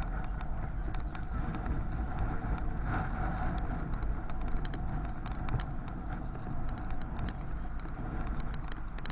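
Riding a bicycle: wind rumbling over the microphone under a steady hum, with scattered light ticks and rattles throughout.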